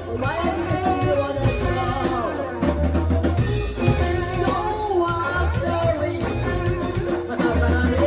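A live band playing a song: a singing voice carries the melody over drums and deep bass notes.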